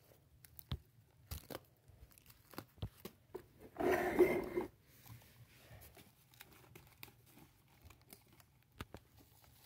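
Plastic toy front-loading garbage truck and toy dumpsters being handled: scattered light clicks and knocks of plastic parts, and a louder rustling scrape lasting about a second some four seconds in.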